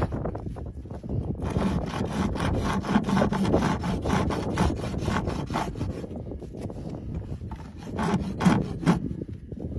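Farrier's rasp scraping a horse's overgrown hoof wall in quick, repeated back-and-forth strokes.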